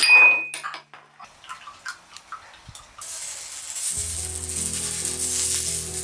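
A sharp clink with a brief ring, a few light clicks and taps, then food starting to sizzle on a hot tabletop grill pan about halfway in, the sizzling steady from then on. Background music comes in shortly after.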